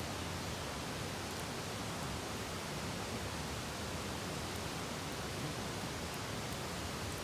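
Steady, even rushing hiss of outdoor background noise, with a few faint high ticks.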